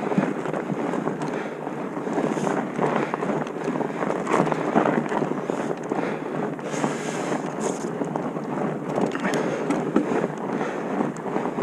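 Wind rushing over the microphone of a mountain bike riding a dirt trail, with steady tyre noise and frequent short clattering rattles from the bike over rough ground.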